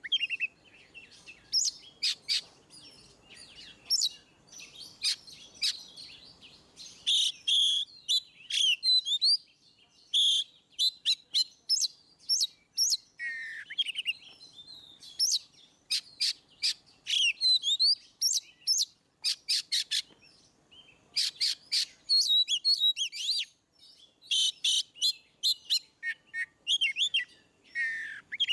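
Oriental magpie-robin (kacer) in full, loud song: quick series of sharp, piercing notes mixed with whistled rising and falling phrases, broken by short pauses.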